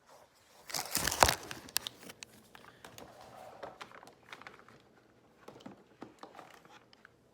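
Crinkling and rustling of a fast-food bag and wrappers being handled, loudest about a second in, then lighter scattered rustles and clicks.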